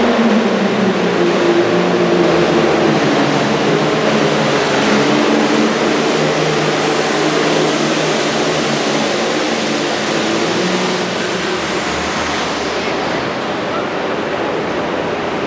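Super Farm pulling tractor's turbocharged diesel engine running hard at high revs under load, a dense, loud noise whose pitch wavers slightly and eases off a little over the last few seconds.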